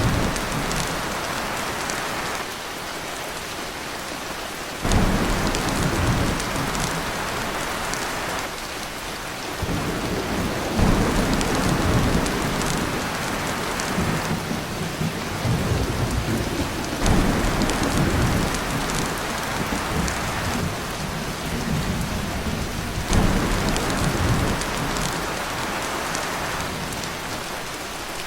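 Heavy rain falling on a tin roof as a steady hiss, with low rolls of thunder swelling and fading several times.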